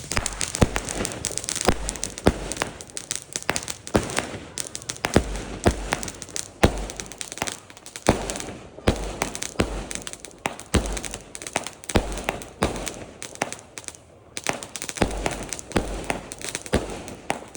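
Fireworks going off: a string of sharp bangs at irregular intervals, about one or two a second, with crackling between them and a brief lull a little before the end.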